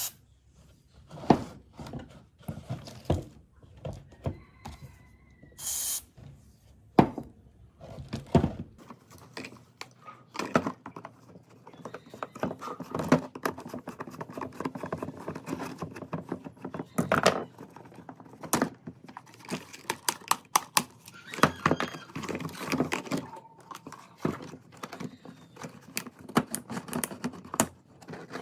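Irregular knocks, taps and clinks of hand work on the metal parts of an old table fan. They come one at a time for the first several seconds, then turn into a busier clatter.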